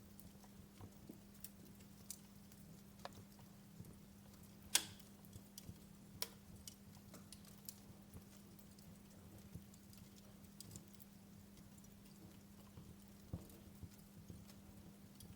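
Wood fire crackling in a fireplace: scattered sharp pops and snaps at irregular intervals, the loudest just under five seconds in, over a faint hiss and a steady low hum.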